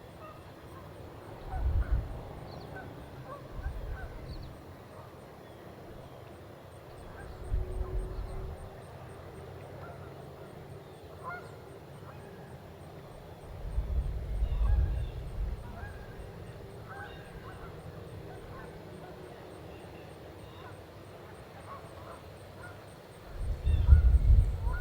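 Geese honking now and then, faint short calls, with gusts of wind buffeting the microphone four times as the loudest sound.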